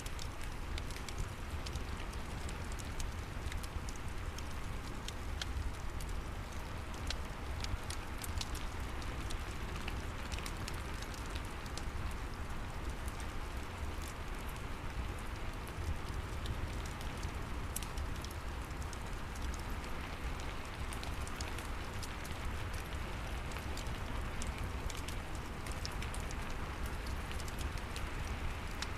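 Steady rain falling with the crackle of a wood fire in a fireplace, scattered small pops over an even wash of rain and a low rumble.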